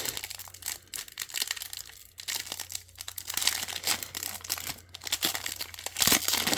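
Trading card pack wrapper crinkling and being torn open, a continuous crackle with a louder rip about six seconds in.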